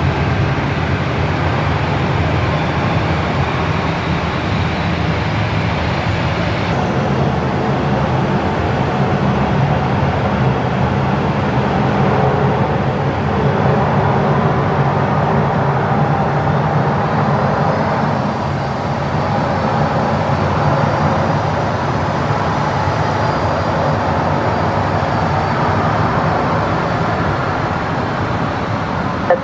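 Jet airliner engines running, a steady loud rumble with a low hum, and a thin high whine that cuts off about seven seconds in.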